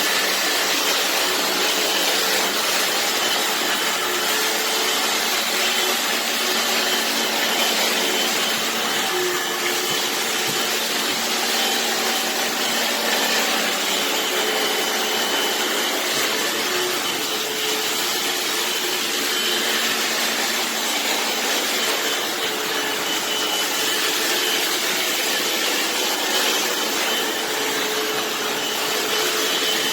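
Hoover FloorMate wet hard-floor cleaner running, its suction motor making a steady, loud rushing noise.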